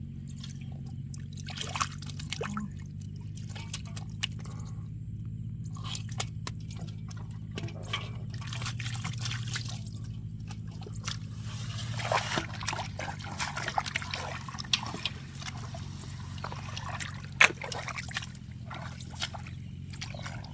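Shallow muddy water sloshing, trickling and dripping as hands grope through a drained rice field for fish, with scattered small splashes and clicks, busiest after about twelve seconds, over a steady low hum.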